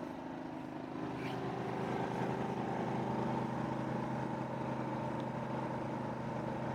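Generac GP3300i inverter generator's single-cylinder engine running steadily under load from an RV air conditioner and refrigerator: an even, unchanging hum.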